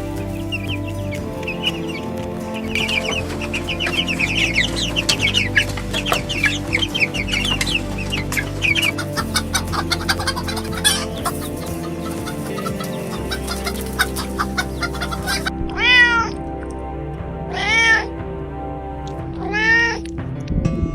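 Chickens clucking in quick short calls over steady background music, then a cat meowing three times near the end, each meow rising and falling.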